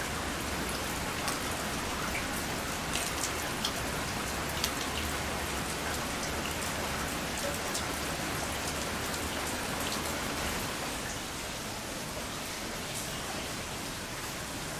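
Torrential typhoon rain pouring steadily, a dense hiss sprinkled with scattered tapping drops. It gets a little quieter in the last few seconds.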